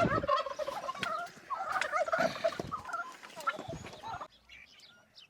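A noisy flock of turkeys and chickens calling, with turkeys gobbling and hens clucking in warbling bursts. About four seconds in the calling drops off sharply to faint, scattered peeps.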